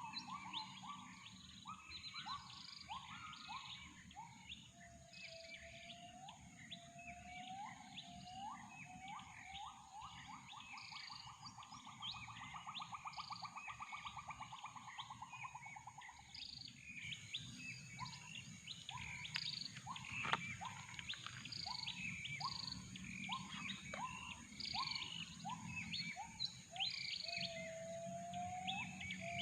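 Gibbons calling over a dense chorus of many birds chirping. The gibbon call is a series of rising whooping notes that speed up into a fast bubbling trill lasting several seconds, and more rising notes come later.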